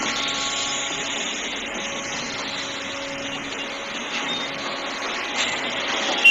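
Steady rushing noise of a moving train, with a faint hum that fades out within the first second.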